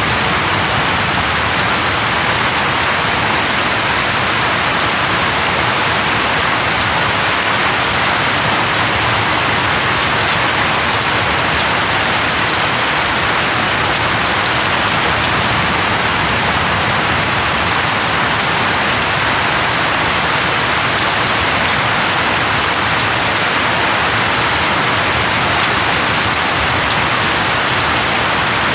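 Steady rain falling on a surface, a dense, even patter that does not let up.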